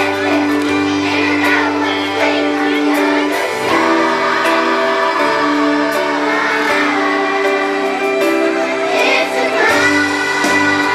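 Children's chorus singing a pop-style song with instrumental accompaniment, holding long sustained notes.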